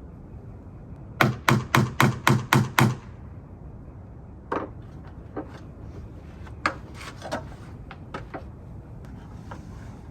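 A quick run of seven sharp knocks, about four a second, followed by scattered lighter taps and clicks.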